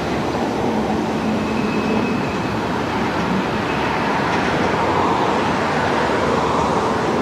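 Train passing: a steady rush and rumble of wheels on rail, with a faint thin tone in the first few seconds.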